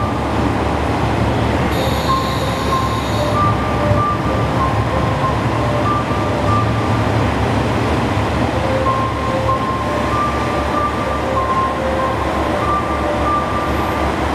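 Train rolling slowly through a station, heard from on board: a steady low rumble with a noisy haze of running noise. Short squealing tones come and go throughout, and a brief high screech sounds about two seconds in.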